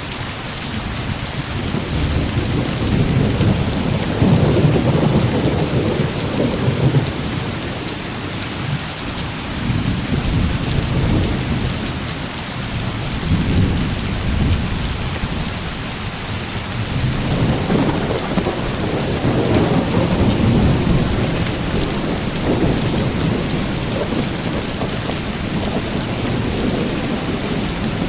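Heavy rain falling steadily, with rolling thunder rumbling in slow swells that rise and fade several times.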